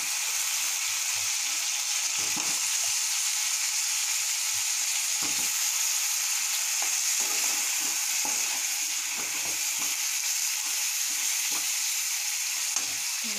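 Raw plantain pieces frying in oil in a pan with onion and tomato, a steady sizzling hiss, with a spoon stirring and knocking against the pan now and then.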